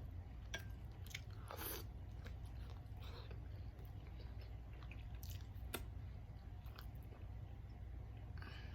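Close-up mouth sounds of a person chewing and biting seafood boil food: scattered wet smacks and small clicks, over a steady low hum.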